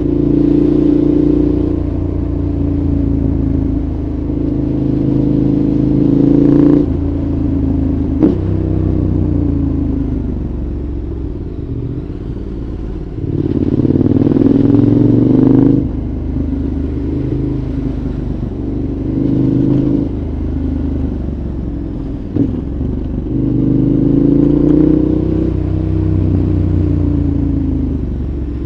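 2014 KTM 1190 Adventure's V-twin engine running through a Giannelli exhaust, its revs repeatedly climbing and then dropping away abruptly as the throttle closes. A sharp click cuts in once about eight seconds in and again at about twenty-two seconds.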